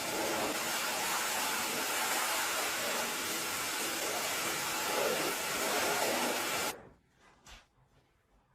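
Pressure washer spraying the motorcycle, a steady loud rushing hiss that cuts off suddenly about seven seconds in, followed by a few faint clicks.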